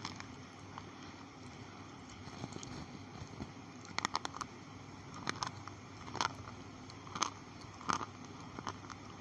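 Slate pencils bitten and crunched between the teeth, giving sharp crisp cracks: a quick run of several about four seconds in, then single crunches roughly once a second.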